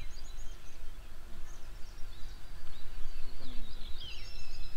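Small birds chirping in short, high calls, a quick run at the start and a busier bout of twittering near the end, over a steady low outdoor rumble.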